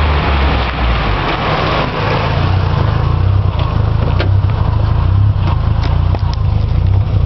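Mk2 VW Golf GTI's 8-valve four-cylinder running through a 2.25-inch cat-back exhaust with a Dynomax Super Turbo muffler. It has a full, hissy exhaust note for the first couple of seconds, then settles to a deep low drone with a few sharp ticks.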